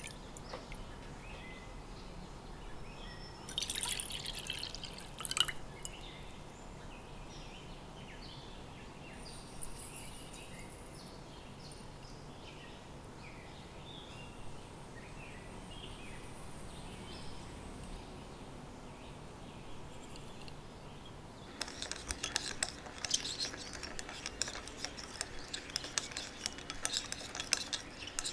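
Kitchen preparation sounds: liquid dripping and pouring into a bowl with a brief clatter, then, from about 21 seconds in, a utensil stirring rapidly in a bowl, with quick clinks against its side.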